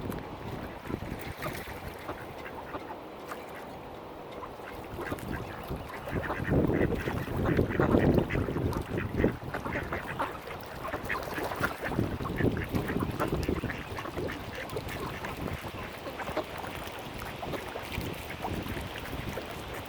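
Mallard ducks quacking in short repeated calls over a steady background of wind and water noise, with a louder rush of noise about six to nine seconds in.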